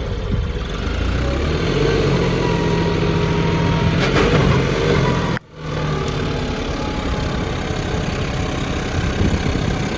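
Tractor engine running steadily, a little louder about four seconds in, with a sudden brief dropout about halfway through before it carries on.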